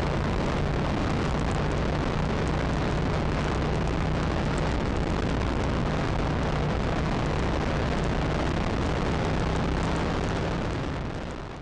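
Steady rumble of running engines with a low hum, fading out near the end.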